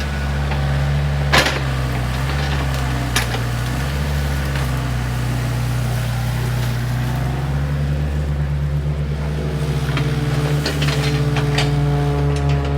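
Volvo ECR88 excavator's diesel engine running steadily, with sharp knocks about a second and a half in and again at about three seconds. Near the end the engine grows a little louder and a cluster of rattling clanks comes in.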